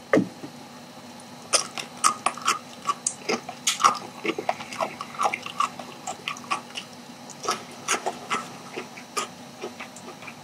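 A man chewing sauced charcoal-grilled chicken close to the microphone: a run of irregular wet mouth clicks and smacks, several a second.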